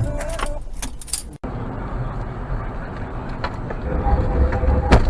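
Car on the road: steady low engine and road rumble, with a few sharp clicks early on and an abrupt cut about a second and a half in.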